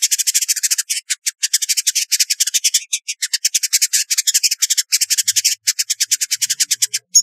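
Village indigobird singing: a rapid chattering run of short, buzzy notes, about ten a second, with brief breaks.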